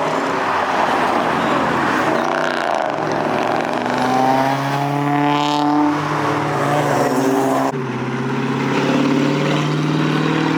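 Car engines and exhausts running loud as cars drive past; about four seconds in, one engine revs up with a rising pitch, then settles into a steady drone. The sound drops off suddenly about eight seconds in.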